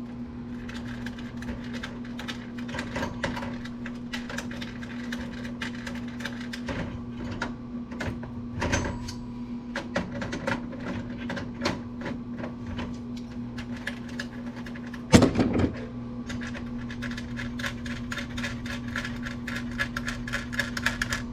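Clicks, taps and scrapes of hand tools and metal and plastic parts as a circa-2000 Apple computer is taken apart, with one louder knock about 15 seconds in. A steady low hum runs underneath.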